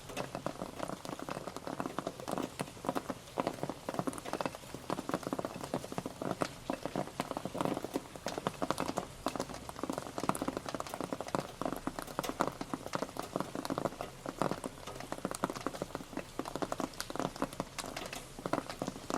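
Steady rain pattering, a dense run of many small drop taps.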